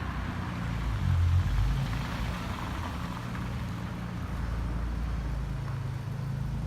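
Nissan 300ZX Z32's 3.0-litre V6 engine running at low revs, its note shifting up and down a few times.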